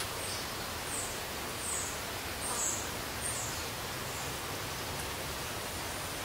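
Steady background hiss with a small bird's short, high chirps, about one a second, over the first four seconds.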